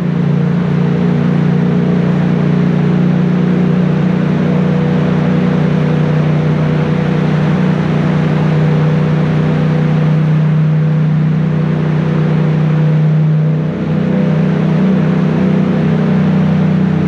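Yamaha 689 cc crossplane parallel-twin engine pulling steadily while riding in rain, under a heavy rush of wind and rain noise. About fourteen seconds in, the engine note briefly dips, then carries on a little higher.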